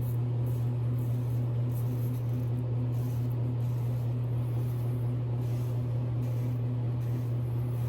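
Double-edge safety razor strokes scraping through lather and stubble, a run of short scratchy strokes that thin out toward the end, over a steady low hum.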